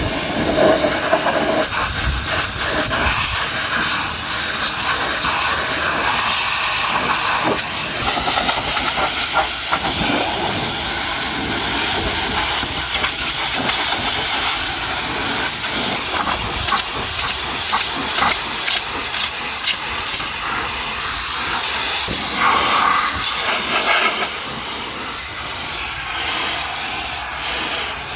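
High-pressure water jet from a pressure washer spraying against a truck: a steady, loud hiss that surges and dips as the spray moves, easing off a little about 24 seconds in.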